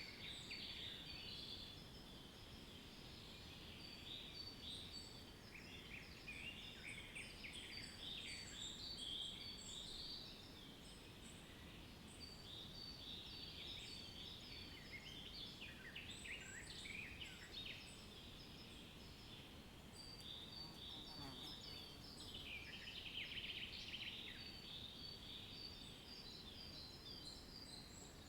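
Several small birds chirping and twittering in quick, overlapping high notes, over a faint steady low background hiss.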